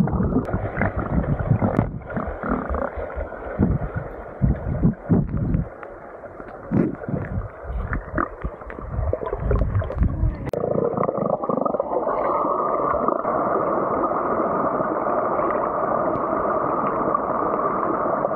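Muffled underwater sound of a swimmer diving: churning water and bubbles surging in irregular low rumbles, settling about ten seconds in into a steady, even rush.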